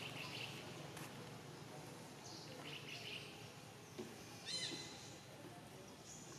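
Faint outdoor ambience with scattered high bird chirps. A short, sharper call of quick rising notes a little past halfway is the loudest sound.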